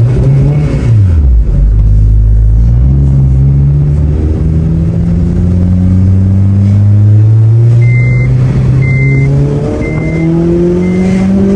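Honda Civic Si's four-cylinder engine through a J2 Engineering cat-back exhaust, accelerating hard: the pitch climbs steadily for several seconds, drops at a gear change about ten seconds in, then climbs again. A short high beep repeats about once a second near the end.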